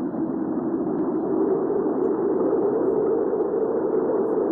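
Hurricane wind ambience: a low, steady rush of wind, swelling slightly about a second in.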